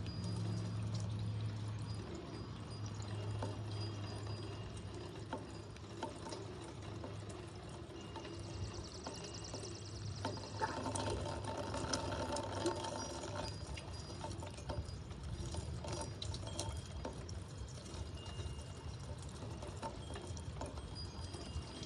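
Rainwater pouring and dripping from a house gutter, a steady splashing wash scattered with drips.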